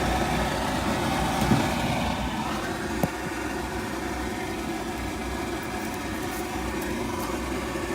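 Goodman gas package unit running in heating mode with its burners lit, a steady mechanical hum with a low rumble; a single sharp click about three seconds in.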